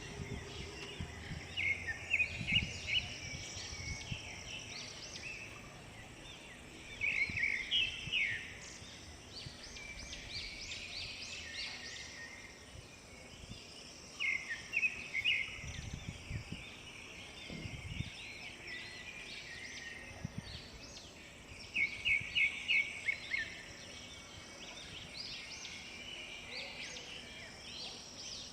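Birds chirping and calling, with a loud phrase of several quick repeated notes returning about every seven seconds, over softer continuous twittering.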